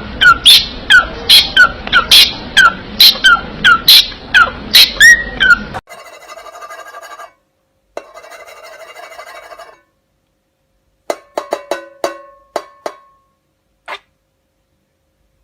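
Parrot giving a rapid run of loud, sharp squawks that drop in pitch, about two to three a second, stopping abruptly. Two softer buzzing stretches and a few clicks follow.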